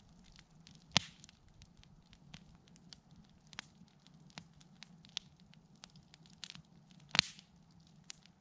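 Wood campfire crackling: scattered sharp snaps and ticks, with two loud pops about a second in and about seven seconds in, over a faint low hum.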